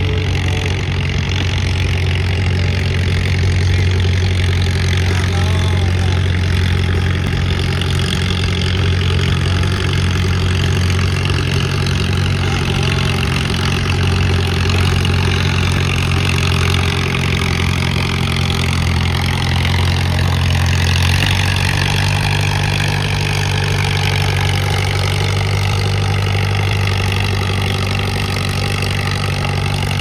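Pulling tractor's engine running steadily at a low, even pace. About two-thirds of the way through its pitch steps up slightly and then holds steady again.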